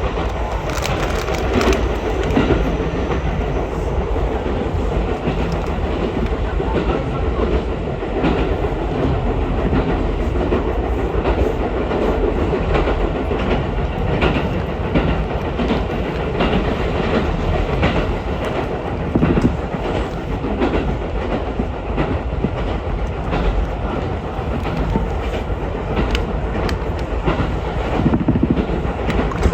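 Ichibata Electric Railway electric train running along the line, heard from inside the carriage: a steady rumble of wheels on rail, with frequent clicks as the wheels pass over rail joints.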